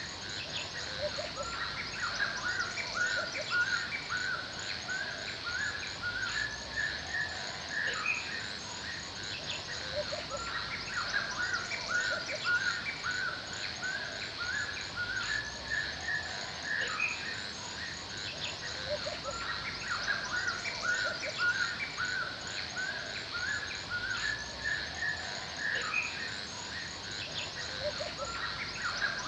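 Forest birds chirping in repeated quick runs that come and go every few seconds, over a steady high, fast ticking trill and a soft background hiss.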